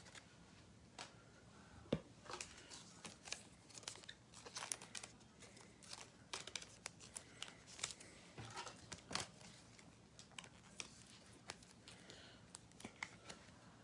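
Faint scattered taps, clicks and rustles of trading cards being handled and sorted, with a sharper tap about two seconds in.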